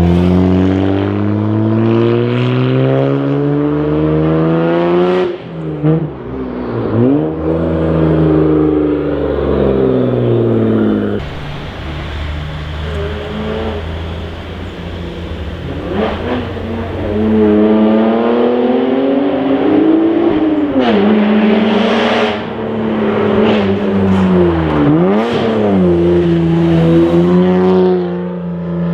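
Toyota JZX90 Mark II's 1JZ-GTE twin-turbo straight-six exhaust under acceleration. The engine note climbs in pitch and drops sharply at each gear change, several times over, with stretches of steadier running in between, and settles to a steady cruise near the end.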